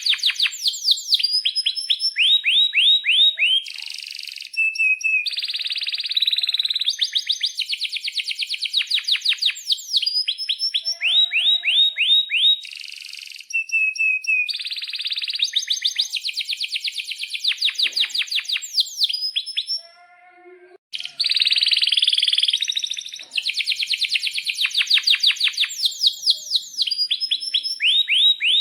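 Domestic canary singing a long song: fast trills of repeated falling notes alternating with buzzy rolled phrases, with a brief break about twenty seconds in.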